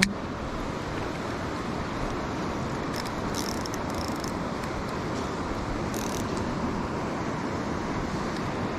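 Steady rushing of a mountain creek's flowing water, with a few faint high clicks about three to four seconds in and again near six seconds.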